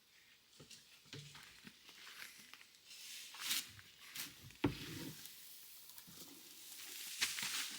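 Irregular rustling and scraping of compost material being handled and packed into a compost bin, with a sharp knock a little past halfway.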